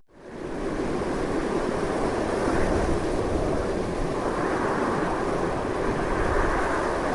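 Strong wind blowing as a steady, loud rushing noise. It drops out briefly right at the start and swells back within about half a second.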